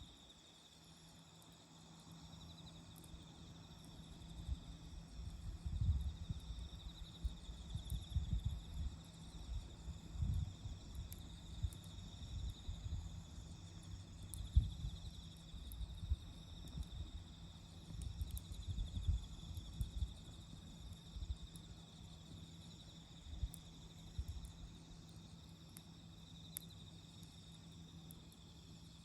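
Autumn insects, crickets, chirring steadily at a high pitch around a campfire, with scattered faint sharp crackles from the burning wood and irregular low rumbles from about six seconds in until near the end.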